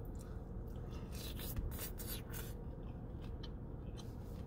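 A person chewing a bite of crispy birria taco: a few short crunchy, wet mouth sounds over a low steady hum.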